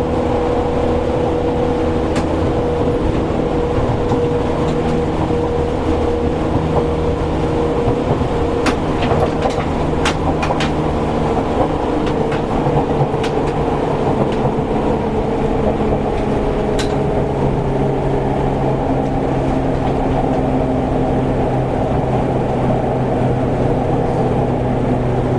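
Seibu 101-series electric train running, heard from inside the motor car: a steady rumble with a low-pitched traction-motor hum that slowly falls in pitch as the train slows. A few sharp rail-joint clicks come about a third of the way in and again past the middle.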